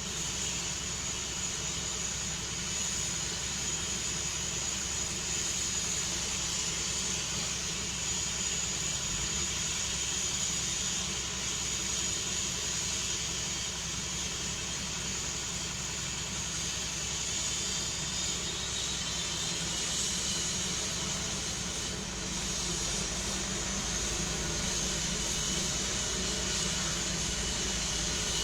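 Helicopter running steadily: a high, even turbine whine over a broad rushing noise.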